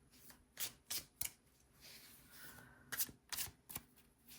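Tarot cards being shuffled and handled: two quick runs of three sharp card snaps, with a softer rustle of cards between them.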